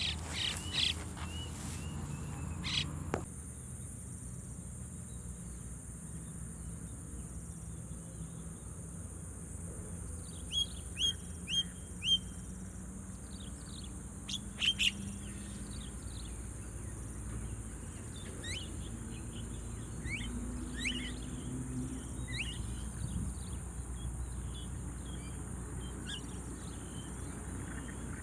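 Birds chirping in short, scattered notes, with a quick run of four falling chirps about ten seconds in, over a steady high-pitched insect drone. A few knocks come near the start.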